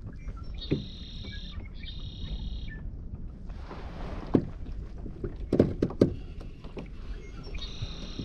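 Kayak under way with wind rumbling on the microphone. A high buzzing call comes twice in the first few seconds and again near the end. A short cluster of knocks from gear on the hull, about two thirds of the way in, is the loudest sound.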